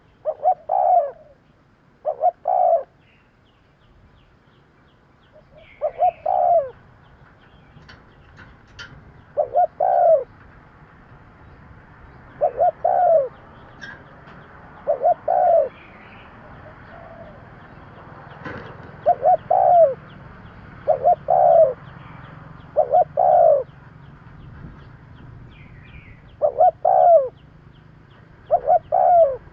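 Spotted dove cooing: short phrases of two or three low coos, repeated about every two to three seconds.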